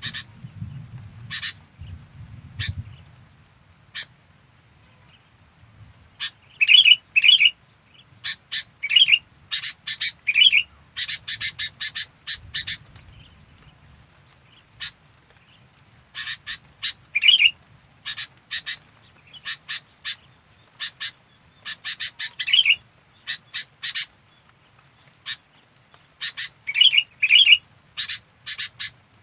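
Sooty-headed bulbul (kutilang) calling: quick runs of short, chirpy notes, broken by pauses of a second or more.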